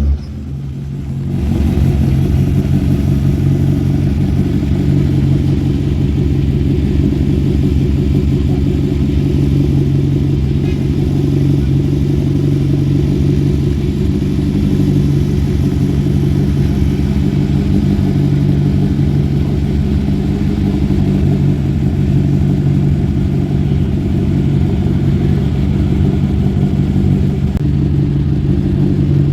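Historic rally car's engine running at a steady speed, its note holding one pitch without revving up or down.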